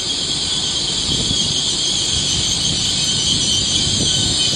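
Class 802 IET train drawing into the platform, with a steady high-pitched squeal, typical of brakes, over a low rumble.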